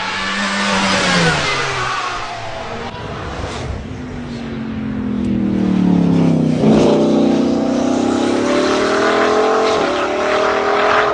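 A high-performance car engine accelerating hard. Its note falls away at the start, then climbs through the gears, with quick upshifts about two-thirds of the way in and again near the end.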